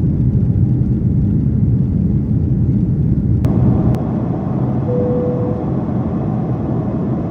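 Steady low rumble of engine and airflow noise inside a climbing Boeing 767-400ER's cabin. Two sharp clicks come about three and a half and four seconds in, after which the rumble is a little lighter. A brief single-pitch tone sounds about five seconds in.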